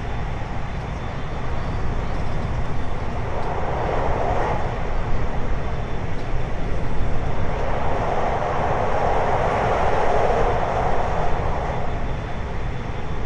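521-series electric multiple unit running at speed, heard from inside the car: a steady rumble of wheels on rail that swells briefly about a third of the way in and more strongly through the second half.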